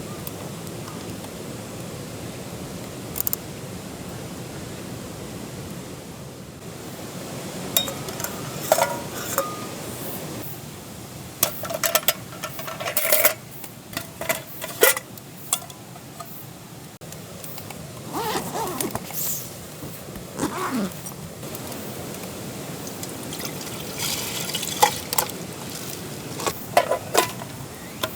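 Camp cookware and utensils clinking and knocking in scattered bursts over a steady low hiss, with short stretches of liquid being poured or stirred.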